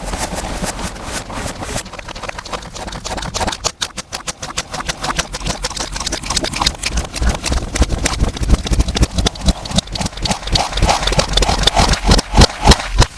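Slime being squished and worked, giving a rapid run of sticky popping clicks over a low, distorted rumble. The pops grow denser and louder over the second half, then stop abruptly.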